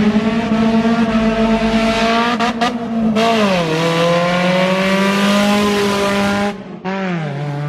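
A really loud car engine held at high revs. Its pitch dips about three seconds in and creeps back up, with a hiss over it. It cuts off briefly about six and a half seconds in and comes back at a lower, steady pitch near the end.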